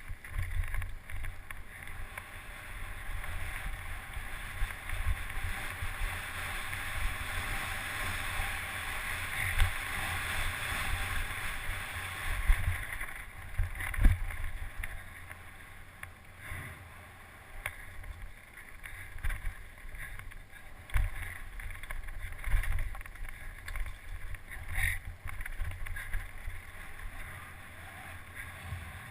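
Wind rushing over the microphone with constant low rumbling jolts and scattered sharp knocks, the sound of a mountain bike run over rough ground; the biggest knock comes about halfway through.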